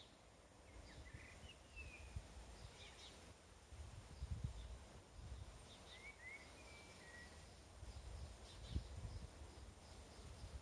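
Faint birds calling outdoors: scattered short chirps and two brief whistled phrases, over a low wind rumble on the microphone that swells twice, about four and about eight seconds in.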